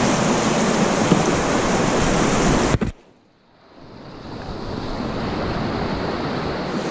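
Steady rush of fast-flowing river water, mixed with wind noise on the action-camera microphone. It cuts out suddenly about three seconds in, then fades back up over a couple of seconds.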